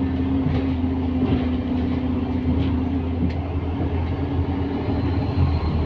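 A London bus running along a route, heard from inside: a low rumble from the engine and drivetrain with a steady hum that drops away about three seconds in, and a few light rattles.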